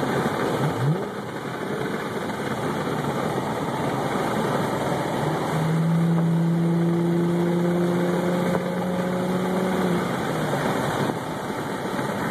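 2011 Chevrolet Camaro's 3.6-litre V6 running through a Magnaflow muffler with the resonators removed, heard from inside the cabin with the windows down while driving at low speed, mixed with tyre and wind noise. A steady exhaust hum comes up about five seconds in and fades about four seconds later.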